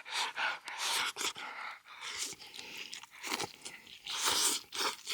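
A person chewing food close to the microphone, in a run of uneven wet chewing sounds.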